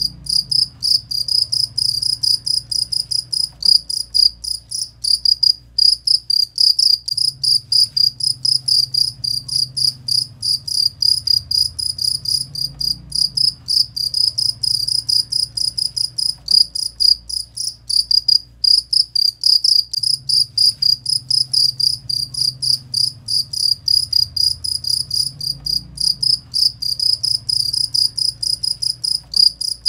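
Cricket (jangkrik) chirping without a break: a fast, even train of short, high-pitched pulses, several a second.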